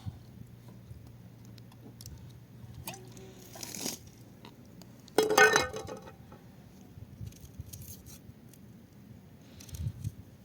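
Scattered small clicks and clinks of things being handled, with one louder clatter about five seconds in.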